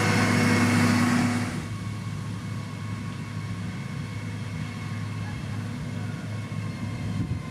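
Heavy road-construction machine's diesel engine working under load, running high and slightly rising at first, then easing off about a second and a half in to a steadier, quieter running with a low rumble.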